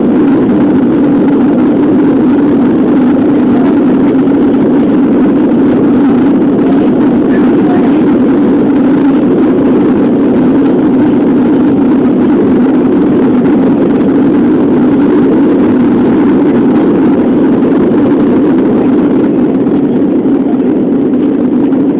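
Airbus A330 airliner in flight after takeoff: jet engine and airflow noise, loud and steady, as heard inside the cabin, easing slightly near the end.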